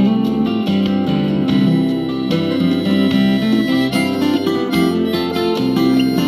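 Instrumental break of a country-folk song: acoustic guitar picking and strumming, with no singing.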